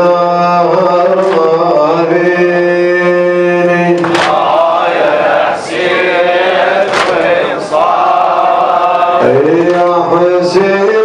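A male voice chants a lament in long, held, wavering notes, as a mourning recitation for Imam Husayn. A few sharp strikes fall across it, and a rougher, noisier stretch comes about halfway through.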